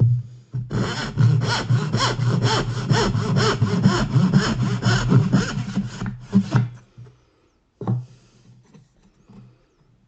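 Backsaw cutting dovetails by hand in cherry, with quick, even push-and-pull strokes of about four a second that stop about 7 s in. A single short knock follows about a second later.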